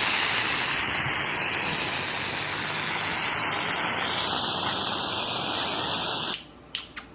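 Steady, loud rushing hiss that cuts off abruptly about six seconds in.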